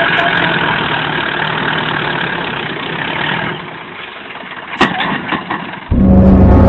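Tractor engine running steadily, then dying down about three and a half seconds in. A sharp click follows, and near the end loud music starts abruptly.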